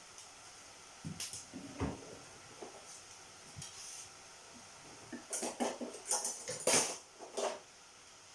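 Utensils clinking and scraping against dishes as spaghetti is served. There are a few knocks about a second in and a busier run of clatter from about five to seven and a half seconds in.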